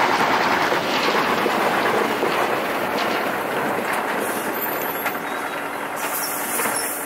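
Tatra Terrno1 6x6 tipper truck running: a dense, steady rushing noise that slowly fades.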